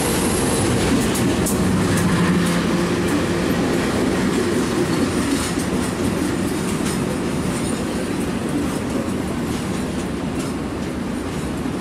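Passenger train carriages rolling past close by, a steady rumble with wheels clicking over rail joints and a thin high squeal in the first second.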